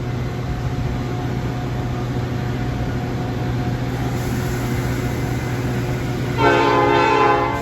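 Metra F40PH diesel locomotive's engine running steadily as the train moves, then a loud multi-chime air horn blast about six and a half seconds in, held for about a second.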